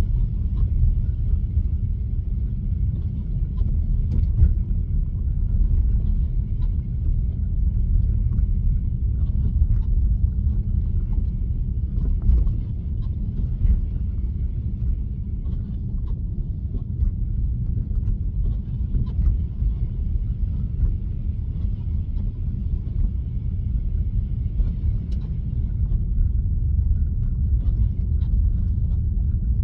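Steady low road and tyre rumble heard from inside a Tesla's cabin while it drives on a snowy road, with faint scattered ticks.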